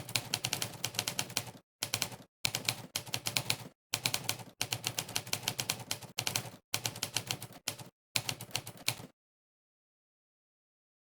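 Typewriter key-strike sound effect played for each keystroke during fast typing: rapid runs of crisp clacks broken by short pauses. The clacks stop about nine seconds in, leaving dead silence.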